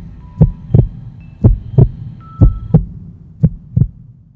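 Heartbeat sound effect: pairs of low thumps about once a second, fading near the end, over faint held high tones.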